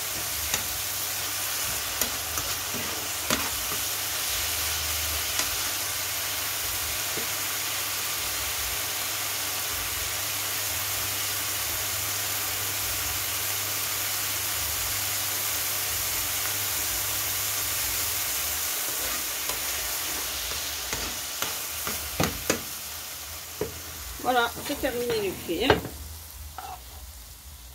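Spinach and garlic sizzling steadily in oil in a frying pan, with a metal spoon clicking and scraping against the pan as it is stirred. The sizzle dies away over the last several seconds, where a few sharper spoon scrapes stand out.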